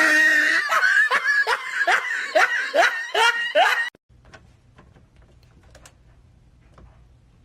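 Someone laughing in a quick run of about nine short bursts, stopping after about four seconds; faint light ticks follow.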